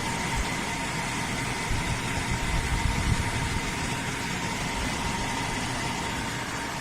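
Cuisinart indoor pizza oven's cooling fans running at a low setting: an even rush of air with a steady whine over it.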